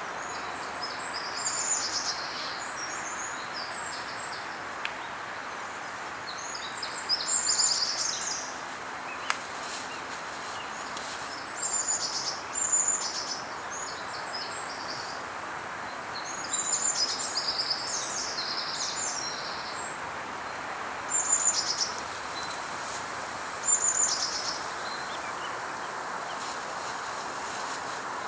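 Songbirds chirping in short clusters of quick high notes, a burst every few seconds, over a steady background hiss.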